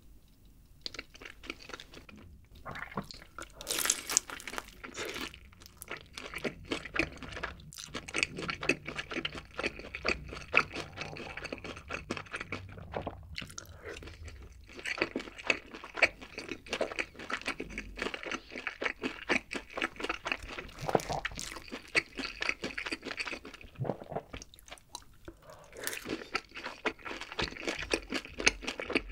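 Close-miked crunching and chewing of fried chicken glazed in black-bean sauce, with many crisp crackles as the coating breaks.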